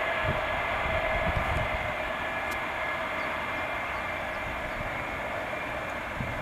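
Douglas DC-8's Pratt & Whitney JT3D turbofan engines running, a steady jet noise with a held high whine that eases off slowly.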